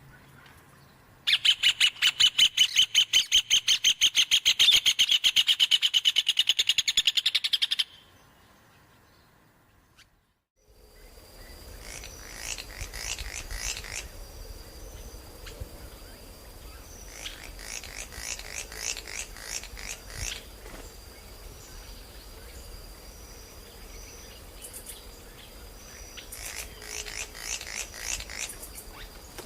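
Birds calling: a loud, fast trill of many short repeated notes lasting about six seconds. After a brief gap come several bouts of chirping calls over a low steady background.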